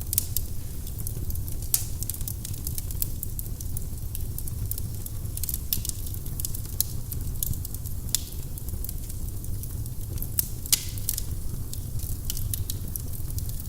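Wood burning in a fireplace: frequent sharp crackles and pops over a steady low rumble of the flames.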